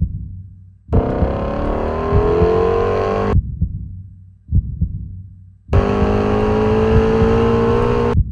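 Two bursts of a Shelby GT350's 5.2-litre flat-plane-crank V8 under hard acceleration, each cut off abruptly: the first rises in pitch as it pulls through the revs, the second holds steadier. Between them comes a low double thump like a heartbeat.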